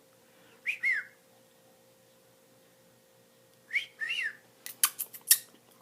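A person whistling to a pet cockatiel: a short two-note rising-then-falling whistle about a second in, and another about four seconds in, followed by a few sharp clicks.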